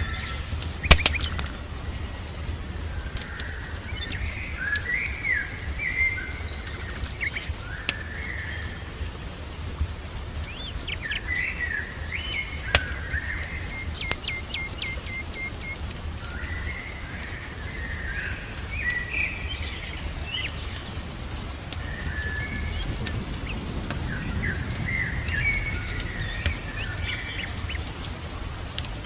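Songbirds chirping and singing in short, overlapping phrases, one of them a rapid trill of evenly spaced notes about halfway through, over a steady low rumble, with a few sharp pops.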